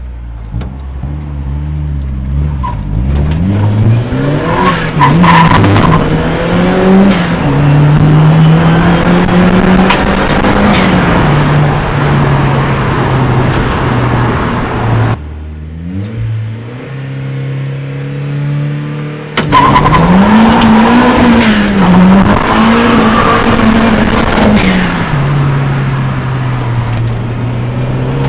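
Turbocharged 1996 Mazda MX-5's 1.8 four-cylinder engine, breathing through a VF35 turbo and Cobalt cat-back exhaust, run hard under throttle: the engine note climbs and holds for several seconds. About halfway it cuts off suddenly to a quieter, lower note, then comes back loud about four seconds later, its pitch wavering before it settles and rises again near the end.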